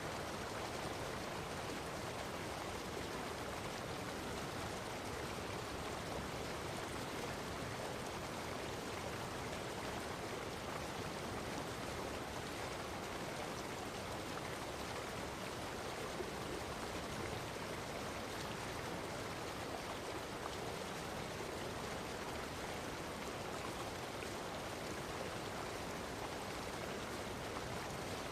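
Natural running water, a steady, even rush with no breaks or changes.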